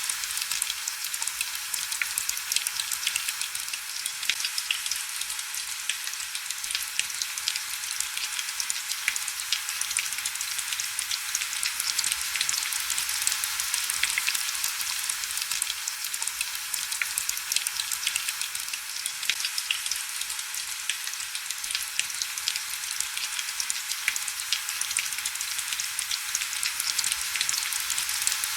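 Heavy rain falling steadily: a dense, even hiss of countless fine drop ticks, high and crackly with almost no low rumble.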